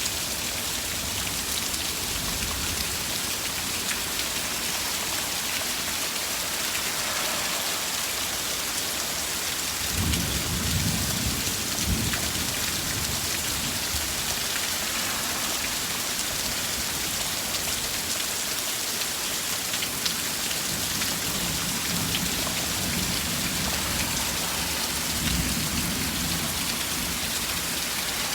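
Steady rain shower hissing on surfaces, with low rumbles swelling about ten seconds in and again near the end.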